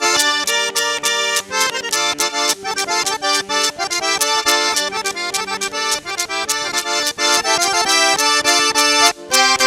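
Accordion playing a fast traditional dance tune over a quick, regular beat, with a brief break just after the ninth second.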